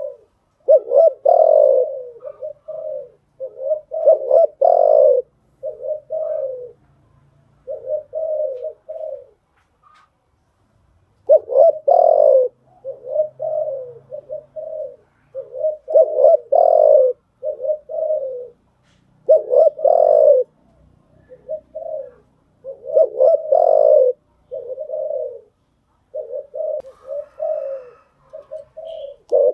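Spotted dove cooing over and over: phrases of several low, throaty coos with short pauses between them and one longer pause partway through.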